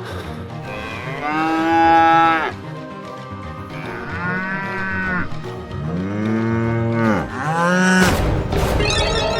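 Cattle mooing: four long calls whose pitch arches and falls, the last one short. Near the end comes a burst of rushing noise.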